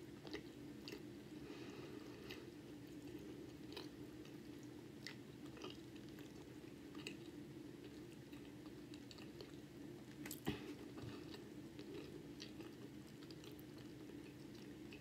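A person chewing a mouthful of hot dog in a soft bun, close to the microphone: faint, scattered wet mouth clicks and smacks, with one louder click about ten seconds in.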